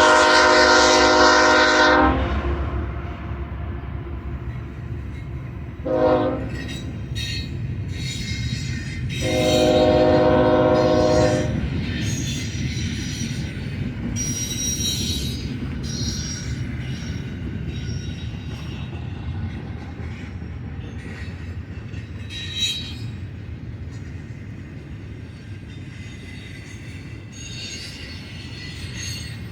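Freight locomotive air horn sounding a long blast, a short one about six seconds in, and another long one from about nine to eleven seconds. After that, a long BNSF freight train rolls past with steady rumbling, wheel clatter and thin, intermittent wheel squeal.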